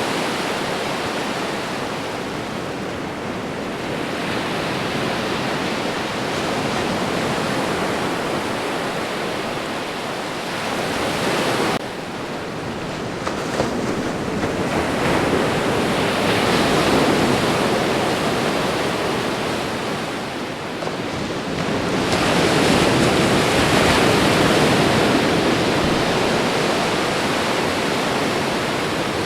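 Ocean surf washing onto a shore in a continuous rush of noise, swelling and easing as waves break every several seconds, with a sudden drop in level about twelve seconds in.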